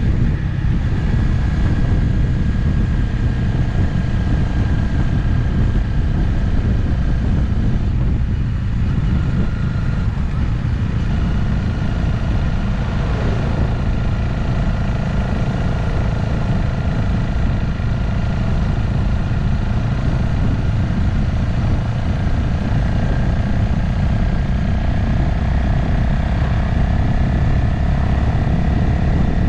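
Motorcycle cruising steadily on an open road, its engine note running under a heavy low rumble of wind and road noise. The engine tone drops slightly about a third of the way in and then holds steady.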